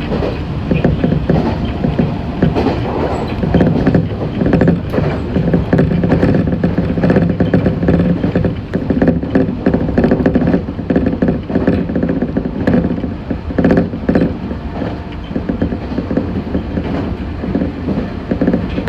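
Meitetsu 6500-series electric train running along the line, heard from inside the car: a steady rumble and low hum from the running gear, with many wheel clicks over rail joints.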